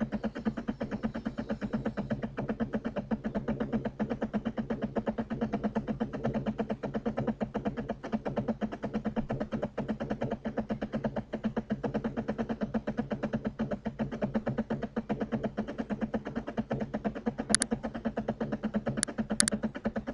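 A steady buzzing hum that pulses rapidly, with three sharp clicks near the end.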